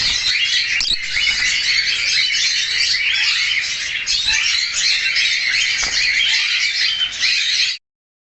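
Several pet budgerigars chattering together, a dense, continuous warbling of many short chirps. It cuts off suddenly near the end.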